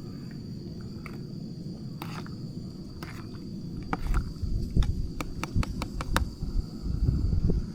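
A quick run of sharp clicks and light knocks over low thumps, starting about halfway through: close handling of camp gear or cookware. A steady high-pitched insect buzz runs underneath.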